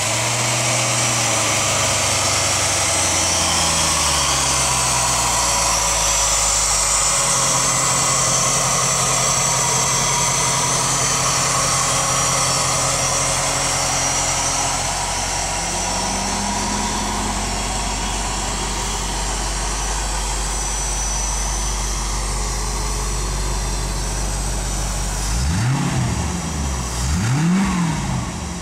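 A 1991 Corvette ZR-1's LT5 5.7-litre quad-cam V8 idling. Its idle speed drops over the first several seconds and then holds steady. Near the end it is blipped twice, rising and falling quickly each time.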